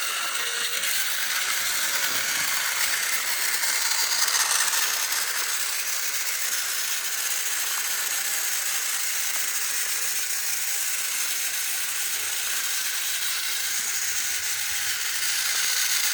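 Small battery-powered toy train's motor and gears whirring with a steady mechanical rattle as the model runs.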